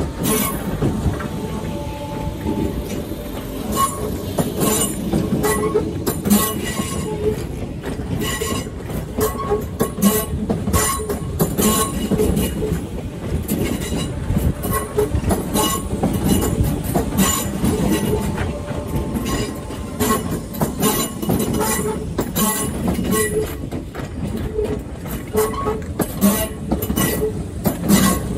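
A train running along the track: a steady rumble with many uneven clicks and knocks of the wheels over rail joints, and short faint squeals from the wheels.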